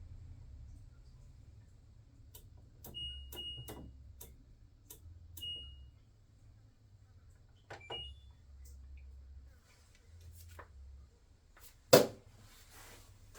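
LG 9 kg washing machine's control panel: button clicks, each with a short high beep, several times as the machine is set and started. A loud knock comes near the end.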